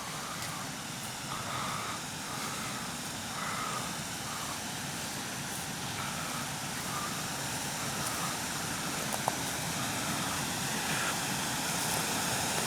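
Steady rush of creek water tumbling over a small waterfall, growing a little louder near the end.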